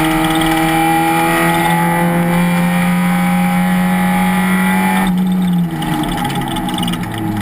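Race car engine at full throttle, its pitch climbing slowly as it pulls through a gear, then cut sharply about five seconds in as the driver lifts off, dropping to a lower, quieter engine note.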